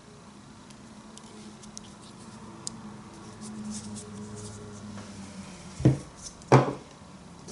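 Small handling clicks and rustles over a faint low hum, then two loud thumps close together near the end.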